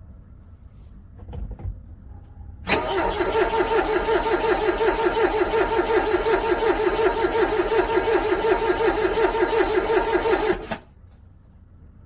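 Car engine cranking on its starter in freezing cold, a steady rhythmic pulsing for about eight seconds without catching, then cut off suddenly: a cold start that fails to fire. A short low thump comes shortly before the cranking begins.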